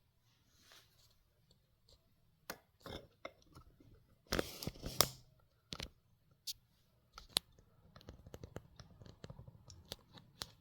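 A string of sharp clicks and taps, with a short burst of clattering about four and a half seconds in and a run of quick small clicks near the end, as of hard objects being handled.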